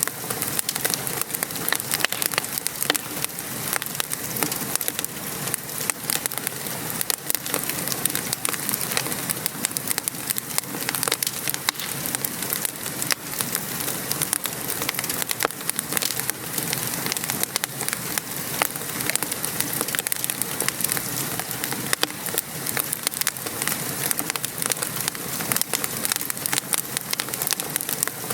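Steady rain pattering, mixed with a wood fire crackling: frequent sharp pops and ticks over an even hiss.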